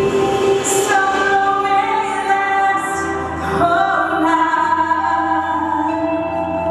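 A woman singing a song with long held notes over an instrumental accompaniment.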